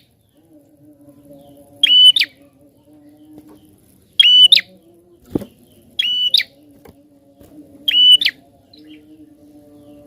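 Prinia (prenjak) calling: four loud, sharp call phrases, each under half a second, repeated about every two seconds. A faint steady low hum runs underneath, with a single brief knock in the middle.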